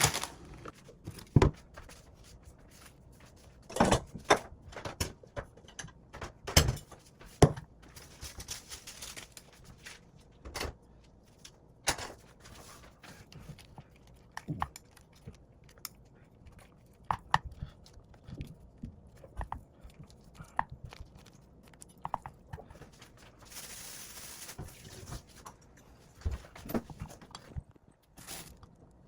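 Close handling noises: scattered sharp clicks and taps with crinkling, and a longer rustling, tearing stretch about two-thirds of the way through, typical of food packaging and utensils being handled.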